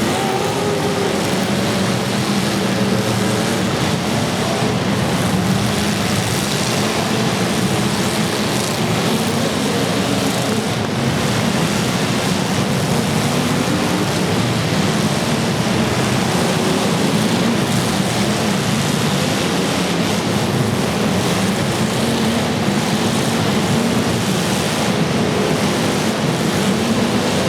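Demolition derby car engines running hard and revving, several at once, their pitch wavering up and down over a constant noisy din.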